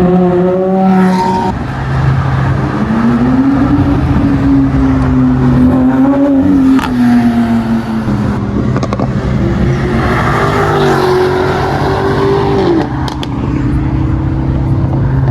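Car engines revving and accelerating past one after another, their pitch rising and falling several times over a steady low engine hum.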